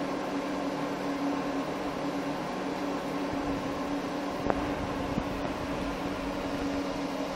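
Steady machine hum with a constant low drone, and a single short click about four and a half seconds in.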